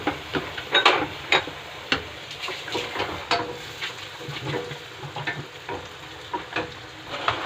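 Food sizzling in hot oil in a pan while a utensil stirs it, scraping and clicking against the pan, the clicks coming more often in the first couple of seconds.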